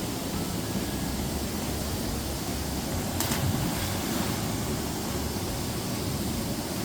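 Waterfall's steady rush of falling water, with a brief sharp noise about three seconds in.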